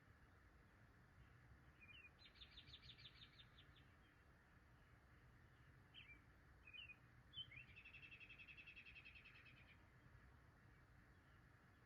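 A small songbird singing a quick trill of rapidly repeated high notes twice, the second longer and a little lower, with short single chip notes in between.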